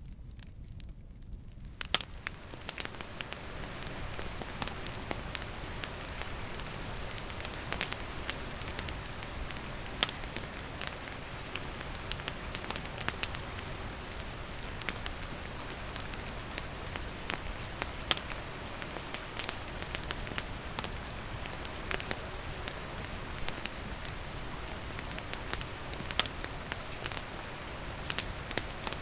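Steady rain with a wood campfire crackling, scattered sharp pops from the fire over the hiss of the rain. The sound fades in over the first two seconds.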